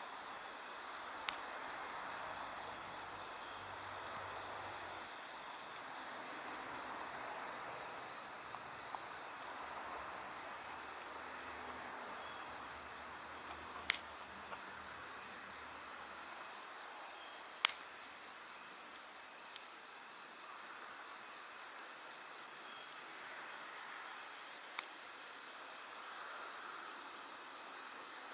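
Night insects chirping: a continuous high trill with a second insect pulsing in a slow, even rhythm, over the soft crackle of a wood campfire. A few sharp pops from the burning wood stand out, the loudest about 14 and 18 seconds in.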